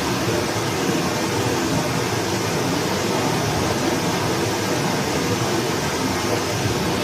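Forest stream rushing steadily.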